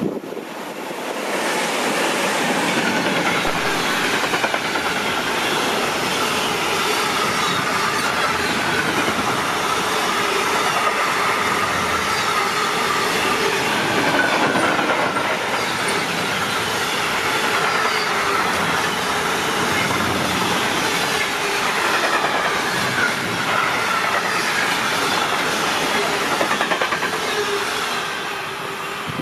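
A train running past on the rails, its wheels clattering over the rail joints with a wavering high squeal. The sound swells in about a second in, holds steady for nearly half a minute and fades near the end.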